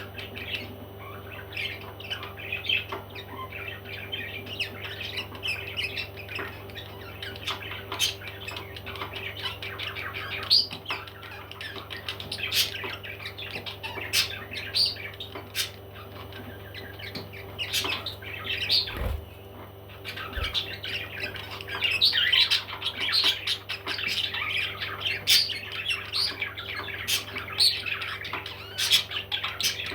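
Parrots squawking and chirping in short, irregular calls, thickest in the last third, over a steady low hum.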